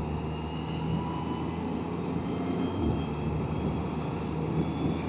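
Can-Am Spyder three-wheeler under way at road speed: a steady engine drone mixed with road and wind noise.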